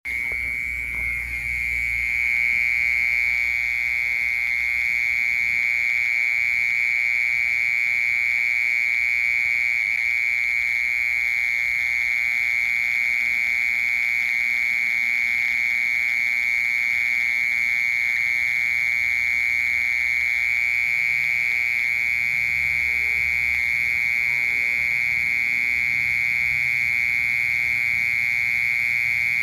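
Mole cricket singing one continuous, steady, high-pitched trill without breaks.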